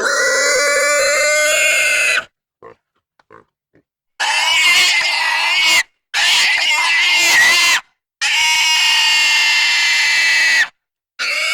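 A series of separate animal cries, each about two seconds long, pitched and wavering, with short silent gaps between them.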